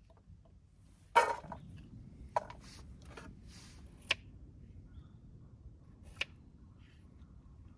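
Four separate sharp knocks or clicks, the first about a second in and the loudest, with a brief rustle after it.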